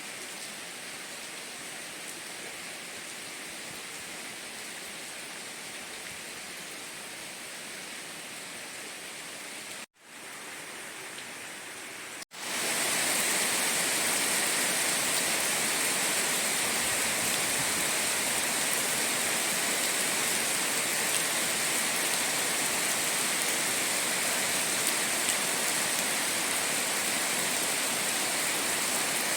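Steady hiss of heavy rain. About ten seconds in it cuts out for an instant, and a couple of seconds later it comes back louder and brighter.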